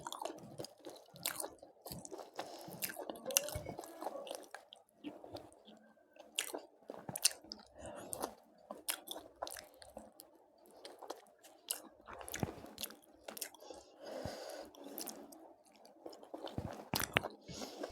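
Close-miked eating: wet chewing with frequent sharp crunching bites, irregular and several a second, typical of biting into crispy fried chicken.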